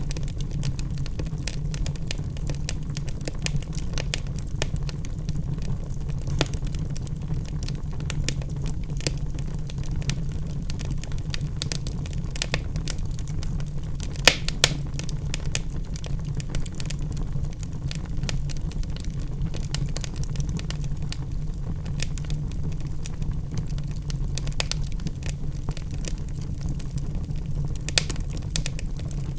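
Wood logs burning in a fireplace, crackling with many small irregular pops over a steady low rumble. Two louder pops come about halfway through, and another near the end.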